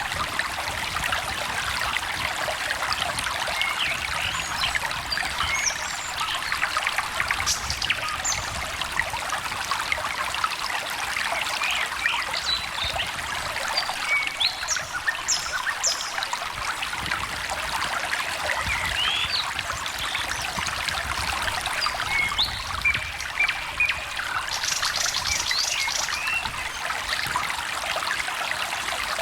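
Small stream trickling and babbling steadily, with short bird chirps and calls scattered over it and a brief high, rapid trill near the end.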